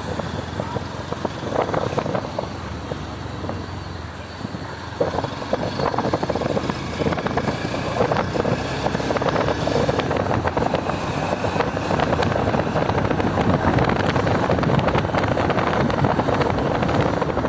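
Motorcycle running on the move, with wind buffeting the microphone. It gets louder about five seconds in.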